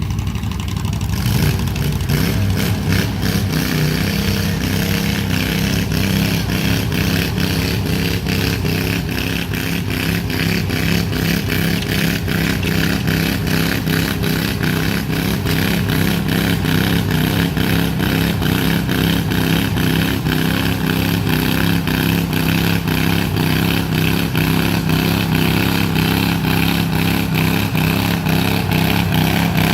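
Tractor engine working hard under load, pulling a sled in a tractor pull. It picks up about a second in and then runs steady and loud for the rest of the pull.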